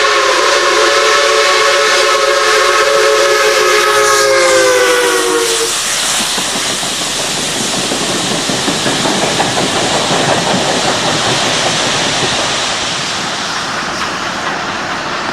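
Steam locomotive whistle blowing one long chord of several notes, sagging slightly in pitch as it dies out about six seconds in, followed by a steady hiss of steam that cuts off abruptly.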